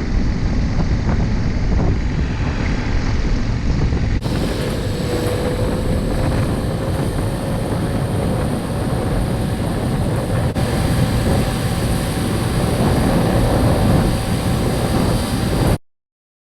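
Motorcycle engine running at road speed under loud wind rush on the microphone while riding, in three spliced clips that cut off abruptly near the end.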